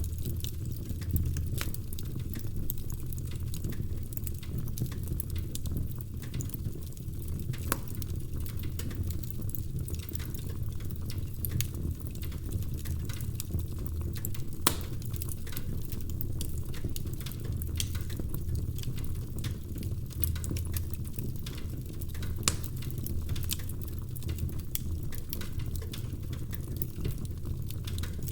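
Wood fire crackling in a fireplace: frequent sharp pops and snaps from the burning logs over a steady low rumble of the flames.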